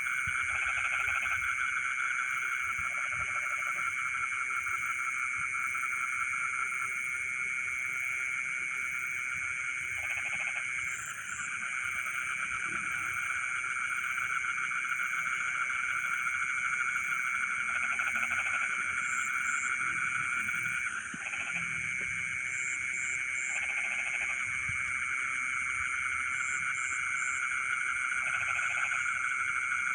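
Dense night chorus of many frogs calling at once, a steady unbroken trilling. Shorter, lower croaks break in every couple of seconds, and a steady high insect-like shrill runs above.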